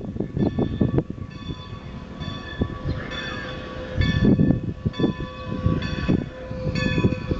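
Bell of Strasburg 2-10-0 steam locomotive No. 90 ringing steadily, struck a little under twice a second, as the engine moves during a run-around. Low, irregular beats from the moving locomotive sound underneath, loudest about four seconds in.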